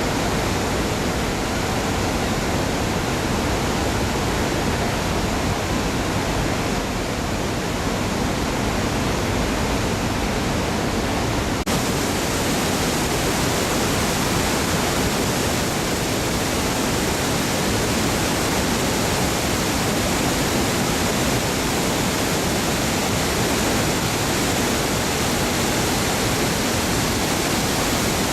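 Steady, loud rush of a large waterfall's falling water, with a sudden shift to a brighter sound about twelve seconds in.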